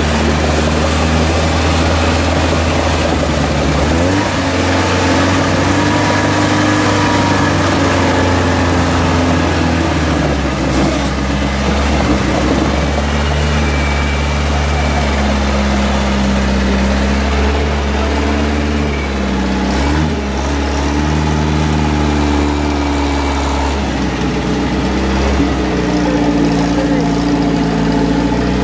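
Engines of UAZ 4x4s running in a river ford, a steady low drone whose revs shift up and down several times, with water churning at the wheels.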